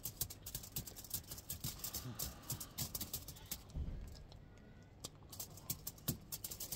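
Close-up chewing of a sticky, gum-like sweet: a dense run of irregular wet mouth clicks and smacks.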